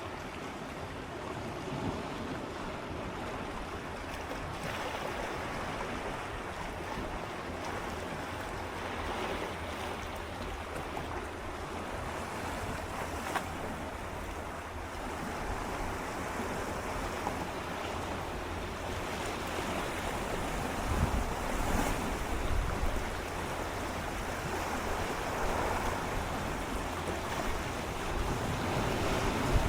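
Gentle sea waves swirling and lapping against shoreline rocks in a steady wash, with a few small splashes.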